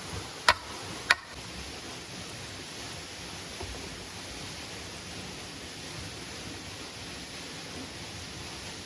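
Steady rain hiss, with two sharp knocks a little over half a second apart near the start.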